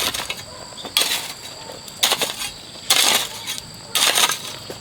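A hoe striking and scraping through loose soil in regular strokes, about one a second, as earth is spread and levelled.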